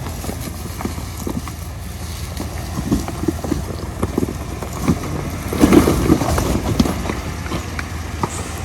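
Vehicle on the move: a steady low rumble with scattered knocks and rattles, busiest and loudest about six seconds in.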